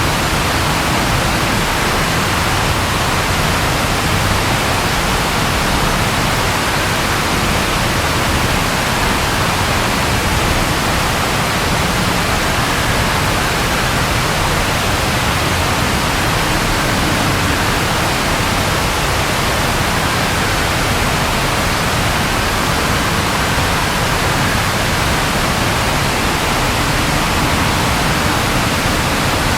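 Steady rainfall, an even hiss that does not change in level, with no thunder.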